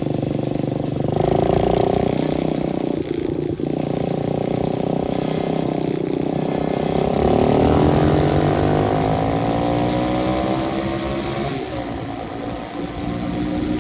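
125cc dirt bike engine running while riding, its pitch climbing steadily for a few seconds past the middle as it speeds up, then dropping near the end.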